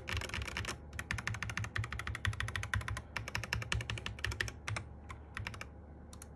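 Fast typing on a Sky87 mechanical keyboard with MMD Panda switches and cherry-profile keycaps: a rapid run of key presses that thins to a few scattered strokes near the end.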